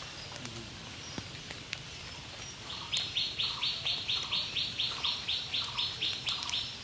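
A bird calling a rapid series of short, evenly spaced high notes, about three or four a second, starting about three seconds in.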